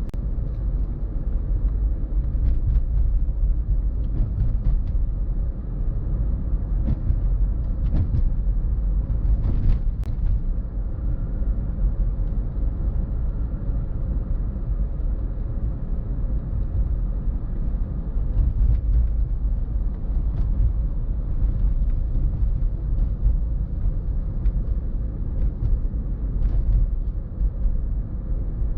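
Car driving on the road: a steady low rumble of tyre and wind noise, with scattered faint knocks and clicks.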